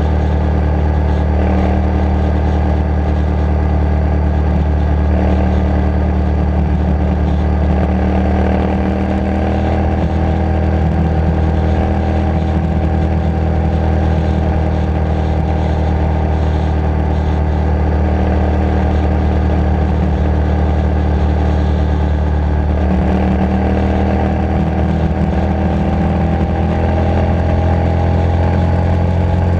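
Motorcycle engine running steadily under way, heard from the bike itself. Its note dips a little about a third of the way in and climbs gradually near the end.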